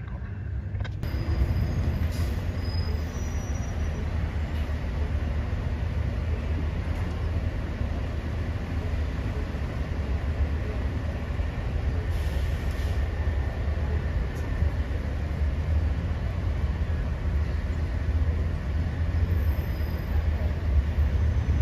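Train running along the tracks: a steady low rumble of wheels on rail that starts about a second in and holds without a horn.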